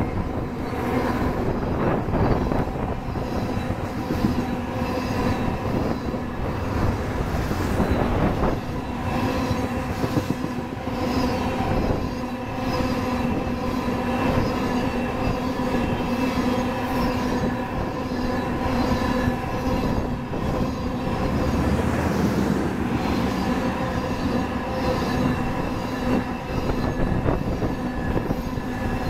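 A long string of railroad tank cars on a crude oil train rolling past close by. Steel wheels clatter over the rail joints, over a steady, pitched wheel whine.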